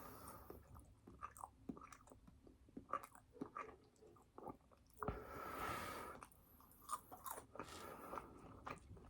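Close-up chewing: a mouth working on food with soft, scattered wet clicks and smacks. About five seconds in there is a breathy, hissy sound lasting about a second.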